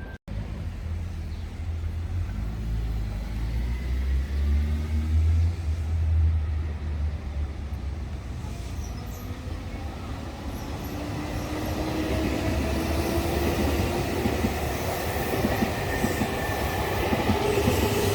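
Nankai electric train running on the line: a low rumble of wheels on rail at first, then from about ten seconds in an electric motor whine that slowly rises in pitch as the train gathers speed.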